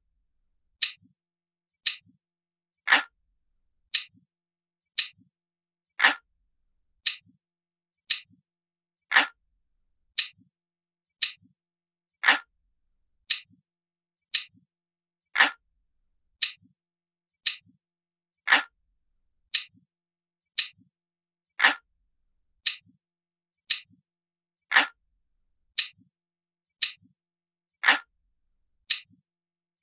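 Glass-like clock ticking, a crisp light tick about once a second, with every third tick louder and fuller.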